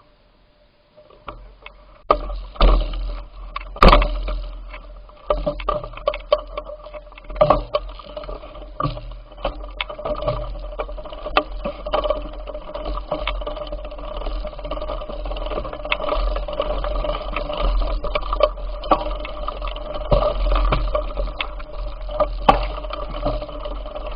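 Noise of riding a bicycle: a low rumble of wind on the microphone, with frequent rattling knocks and a steady hum. It starts about a second in.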